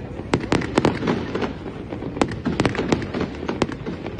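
Fireworks display: aerial shells bursting in quick, irregular volleys of sharp bangs, with a continuous low rumble of echoing reports between them.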